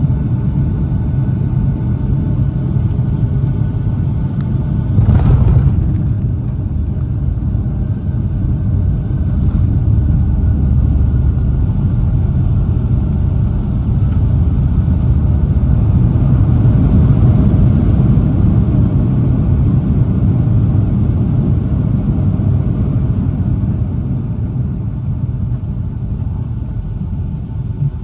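Steady low rumble of a Boeing 757-200 heard from inside the cabin during landing, with a brief louder burst of noise about five seconds in.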